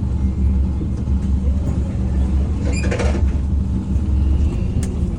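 Scania N230UD double-decker bus's five-cylinder diesel engine running, a steady low rumble heard from inside the bus, with a short rattling noise about three seconds in.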